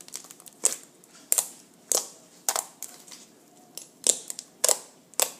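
Slime being worked with the fingers, letting out a series of sharp little pops and clicks of trapped air, about one every half second.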